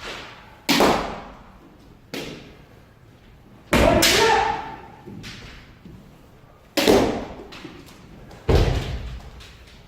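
Kendo sparring: about five sharp, loud hits of bamboo shinai strikes and stamping footwork on a wooden floor, each ringing off over a second or so, with a shouted kiai just after the hit near four seconds in.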